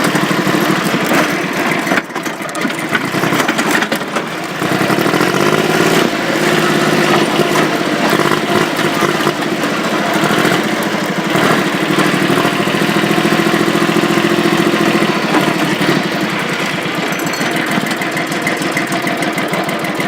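Tractor's diesel engine running, its revs rising about five seconds in, holding, then dropping back near sixteen seconds.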